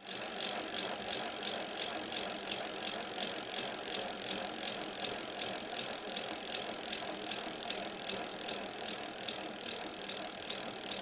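Rapid, even mechanical ticking or rattling, several ticks a second, over a steady high hiss. It starts abruptly.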